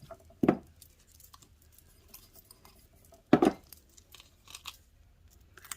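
Papercraft handling on a tabletop: two short knocks, about half a second in and about three and a half seconds in, as pieces are set down or pressed onto the work surface, with faint paper ticks and rustles between them.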